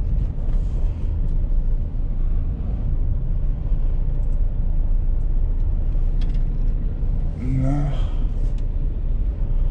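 A van on the move: a steady low rumble of engine and road noise.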